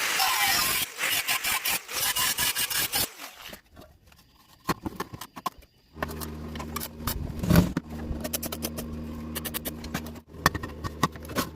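Metalworking in a workshop: a loud crackling hiss for about three seconds, then after a short lull a steady low machine hum with scattered clicks and taps.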